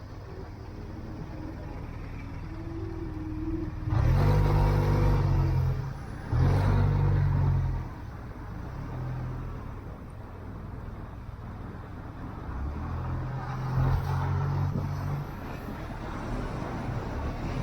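Motorcycle engine running under way, opening up loudly twice about four and six seconds in with a brief dip between the pulls. It then drops back to a steady run and pulls again, less strongly, in the last few seconds.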